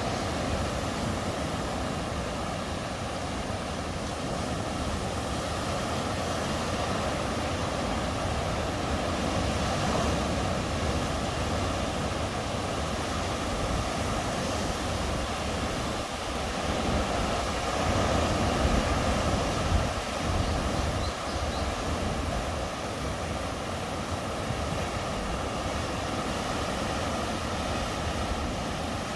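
Sea surf washing on the shore: a steady rushing with an uneven low rumble that swells louder about two-thirds of the way through.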